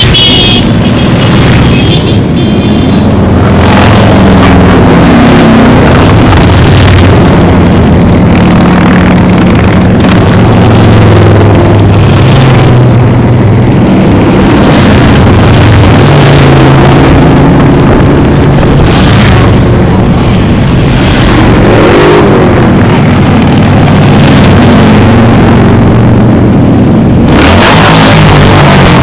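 A stream of motorcycles riding past, several engines running at once and rising and falling in pitch as riders rev and pass, very loud. A louder rush of noise comes in near the end.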